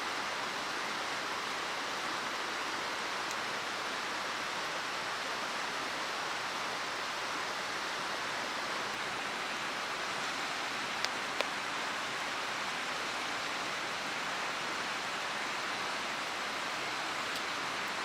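Mountain stream rushing steadily, with two small ticks about eleven seconds in.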